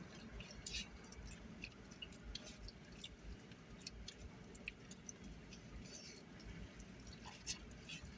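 Faint chewing and small, scattered mouth clicks of people eating, over a low background rumble from a busy road.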